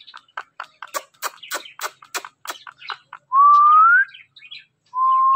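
Pet parrot calling: a quick run of short chirps for about three seconds, then two clear whistles, each held and then rising at the end.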